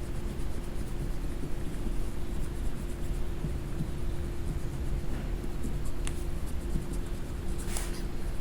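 Faint scratching of coloring strokes on paper over a steady low hum and rumble, with a sharp click about six seconds in and a longer scratch near the end.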